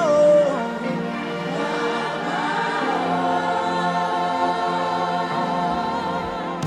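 Gospel worship music with a choir singing held notes; a lead voice slides down in pitch right at the start.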